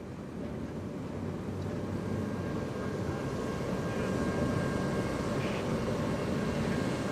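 ALCo S1 diesel-electric switcher locomotive working under load, its engine noise growing louder over the first few seconds and then holding steady, with a faint steady whine above it.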